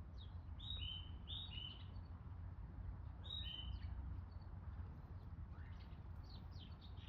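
A small songbird calling: short two-note calls, each stepping down from a higher note to a lower one, given several times in a row, then again a few seconds later, with quicker chirps near the end. A low, steady rumble runs underneath.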